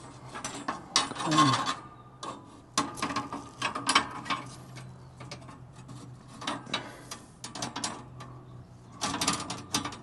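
Irregular metallic clicks and clattering as a new steel bandsaw blade is worked into place on a band sawmill's wheels and blade guides, in clusters with pauses between them.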